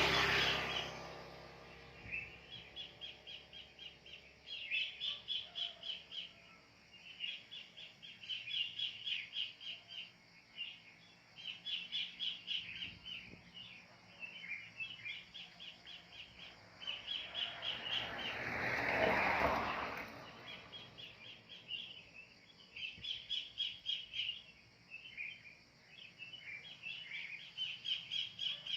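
Wild kingfishers calling in rapid chattering series of sharp notes, a burst every second or two. Midway through, a rushing noise swells and fades.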